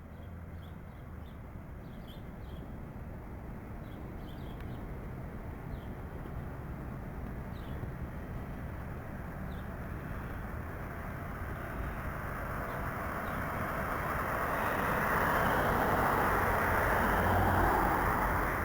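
City street ambience: traffic noise that swells steadily as a vehicle approaches and passes near the end, with a few faint bird chirps in the first half.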